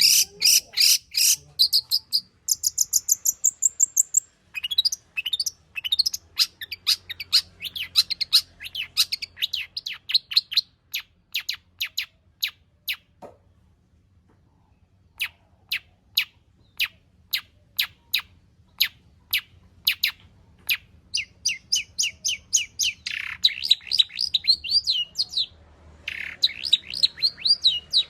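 Long-tailed shrike (cendet) singing a long run of sharp, high, rapidly repeated chirps, breaking off for about two seconds halfway through, then faster warbled phrases near the end.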